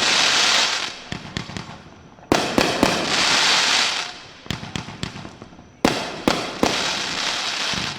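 Fireworks going off: a sudden bang about every three and a half seconds, each followed by a crackling hiss lasting a second or two, with scattered sharp pops in between.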